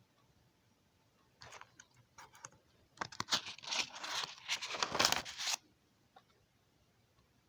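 Irregular crinkling and rustling noise, scattered crackles from about a second and a half in, growing dense about three seconds in and stopping abruptly about five and a half seconds in.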